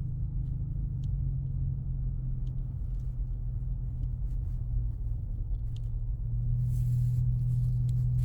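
A 2024 Ford Mustang EcoBoost's turbocharged four-cylinder engine droning steadily at low speed over a low tyre and road rumble on a rough, snow-covered road, heard inside the cabin. The engine note rises slightly about a second in and again about six seconds in.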